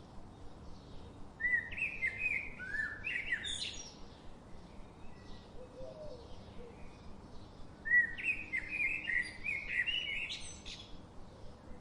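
Songbirds singing: two loud phrases of quick chirped notes about six seconds apart, with fainter birds chirping throughout over a steady background hiss.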